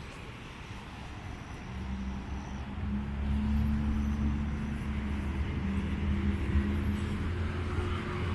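A motor vehicle's engine running, its low hum getting louder about two seconds in and then holding steady.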